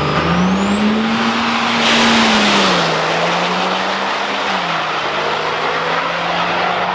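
Turbo-diesel drag truck under hard acceleration: the engine note climbs, then drops twice, about three seconds in and again around four and a half seconds, like gear shifts. A high turbo whistle rises early on and holds over a loud rush of exhaust noise.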